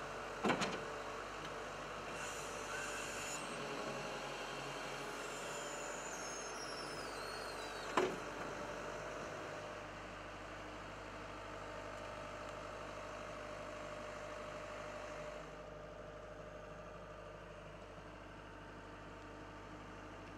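Diesel engine of a tracked skid steer loader idling steadily, with a short sharp knock about eight seconds in. It drops slightly in level a few seconds before the end.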